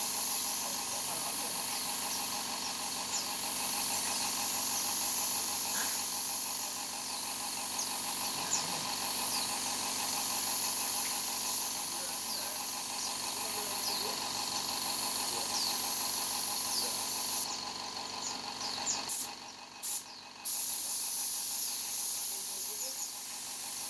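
Spray gun hissing steadily as clear coat is sprayed, the hiss swelling and fading with each pass, over a steady hum of several tones. Near the end the spray cuts off briefly a few times.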